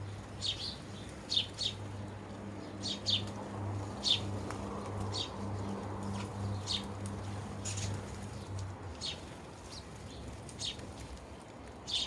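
Sparrows chirping: short, sharp single chirps, about one a second at uneven spacing. A low steady hum sits underneath and stops near the end.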